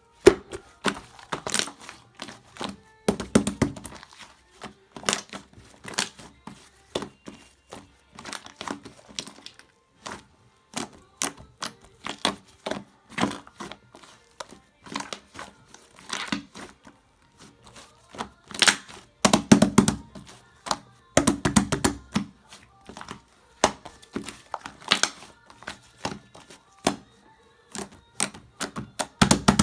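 Meringue-cookie slime being squeezed and pressed by hand, giving dense crackling and popping clicks, with a few heavier, deeper presses now and then.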